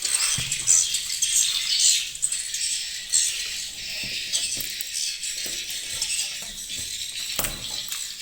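A dense chorus of swiftlet calls: rapid, buzzy, high-pitched chittering that goes on throughout, with two sharp knocks, one about half a second in and one near the end.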